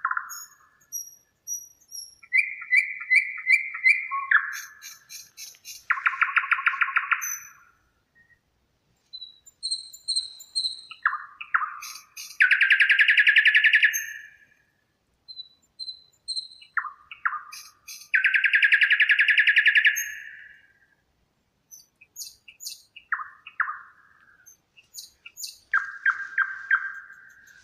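Songbirds singing in separate phrases with short pauses between them: three loud, rapid trills about a second and a half long, along with shorter sweeping phrases and thin high notes.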